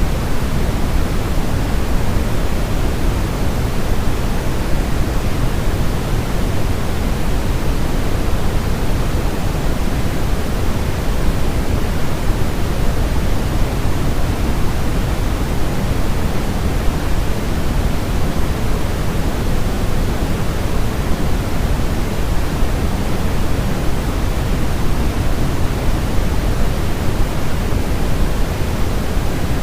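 Steady, unchanging electronic noise played as a baby sleep sound. It is weighted toward the low end, a deep rushing hiss like pink noise rather than a bright white hiss, with no breaks or changes.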